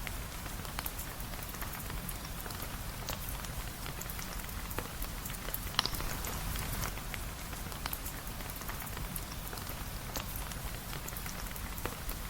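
Steady rain falling, with a low rumble and scattered sharp clicks and pops, one louder pop about six seconds in.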